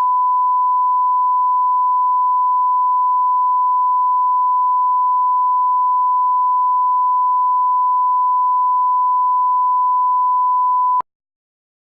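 Continuous reference test tone: a single pure beep held at one steady pitch, cutting off abruptly about a second before the end.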